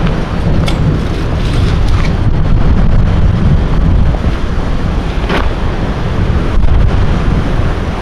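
Strong wind buffeting the microphone: a steady, fluttering low rumble with a few faint short rustles over it.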